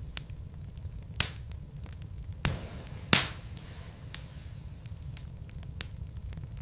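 Wood logs burning in a fireplace: a steady low rumble of the fire with scattered sharp crackles and pops, three of them louder, about one, two and a half and three seconds in.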